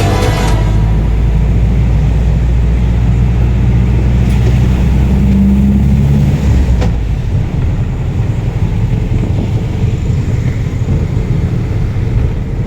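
Loud low rumble of a motor vehicle's engine, with a steady low hum until about six and a half seconds in, after which it turns into a rougher, noisier rumble. The tail end of a music track fades out in the first half second.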